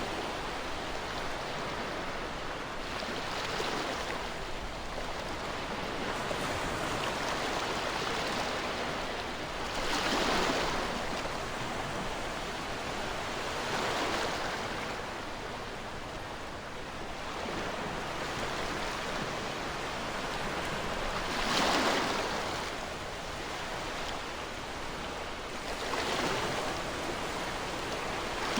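Ocean waves washing onto a shore, a steady rush of surf with a louder wave breaking every few seconds, about five in all.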